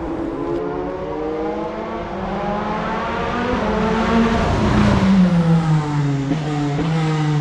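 Formula One car engine running at high revs as the car passes on the circuit: the pitch climbs slowly, then drops sharply as it goes by at its loudest, a little past halfway, and holds a lower steady note near the end.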